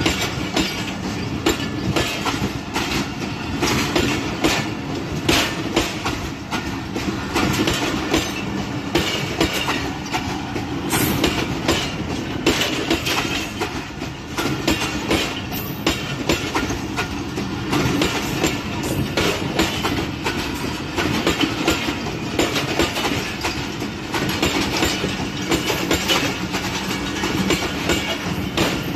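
Pakistan Railways passenger coaches rolling slowly past at close range: a steady rumble of steel wheels on the rails with frequent clicks and knocks from the wheels and running gear.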